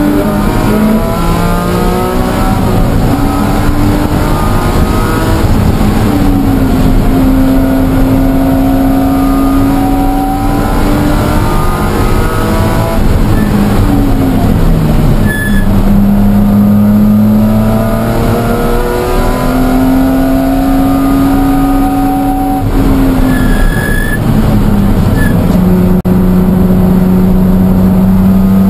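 BMW E46 M3's 3.2-litre S54 straight-six engine heard loud from inside the cabin while lapping a race track, its pitch rising for several seconds under acceleration and falling under braking, several times over.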